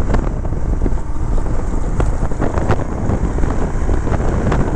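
Wind rushing over the microphone of a moving motorcycle, a Royal Enfield Himalayan with its single-cylinder engine running underneath.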